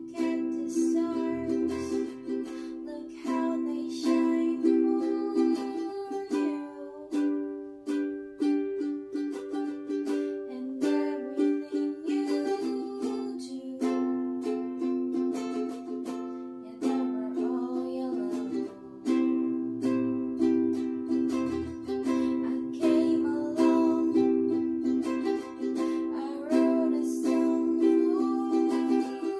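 A ukulele strummed through a run of chords, with many quick strokes and the chords ringing on between them.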